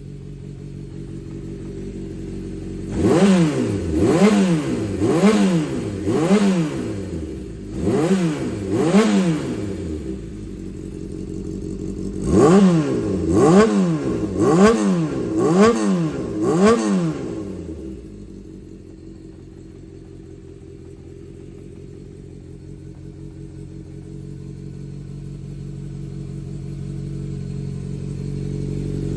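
Yamaha XJ400 air-cooled inline-four motorcycle engine idling and being blipped with the throttle. It makes three groups of quick revs, four, then two, then five, each rising and falling back to idle, then settles into a steady idle. The seller describes the engine as in good condition, free of abnormal noises.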